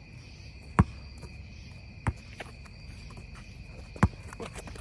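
A basketball bouncing on an outdoor court: three sharp bounces a second or two apart, with a few fainter taps. Insects, likely crickets, keep up a steady high-pitched chirring behind.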